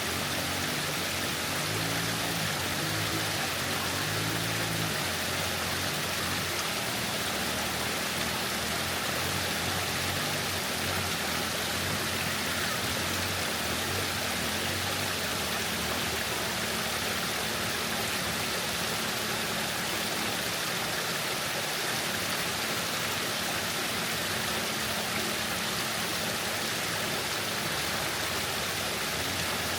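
Waterfall water rushing and splashing in a steady, unbroken roar.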